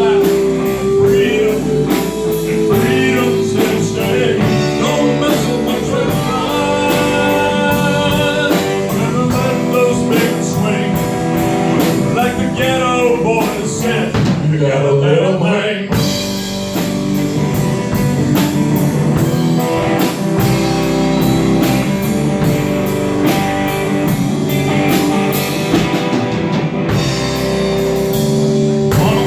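Live rock band playing an original song: electric guitar and bass over a steady drum-kit beat, with a lead line bending in pitch about halfway through.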